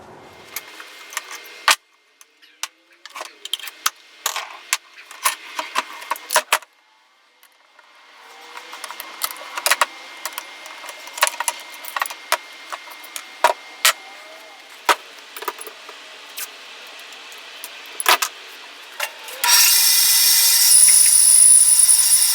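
Metal tool parts and tools being handled on a workbench: scattered clinks, knocks and rattles. Near the end comes a loud, raspy noise lasting about three seconds.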